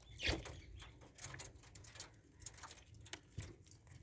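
Budgies pecking and nibbling kernels off a corn cob: faint, irregular little clicks and taps.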